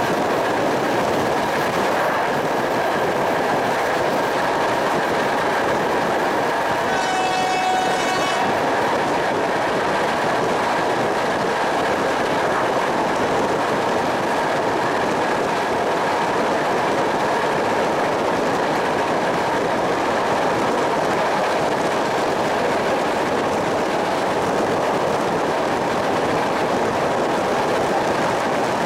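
Steady running noise of a train at speed, heard from an open carriage window. About seven seconds in, the locomotive sounds its horn once for about a second and a half.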